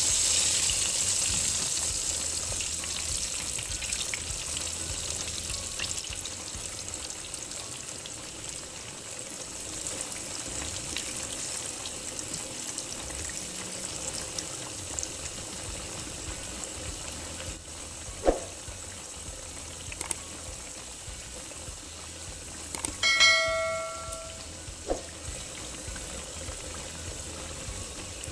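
Breaded potato slices (mojos) sizzling as they fry in hot cooking oil in a pan: a steady hiss, louder at first. Later come a sharp clink of a utensil against the pan, then a brief metallic ring, and another clink near the end.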